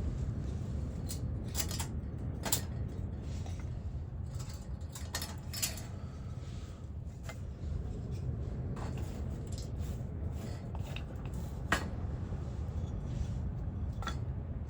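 Scattered metallic clinks and clatter of things being handled, a dozen or so sharp knocks with the loudest near the middle and near the end, over a steady low rumble.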